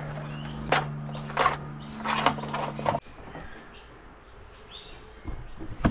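A spiny lobster held out of water makes three short creaky rasps about a second apart, over a steady low hum. The hum stops abruptly about three seconds in, leaving faint scattered handling sounds.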